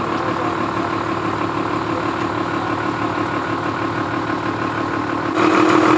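Truck diesel engine idling steadily, growing louder about five seconds in.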